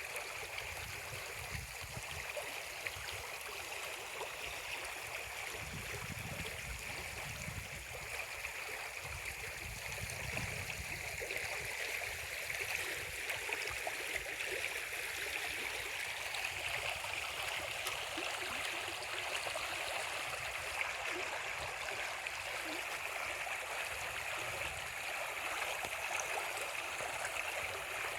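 Steady rushing of flowing water, like a stream, with low rumbles that come and go.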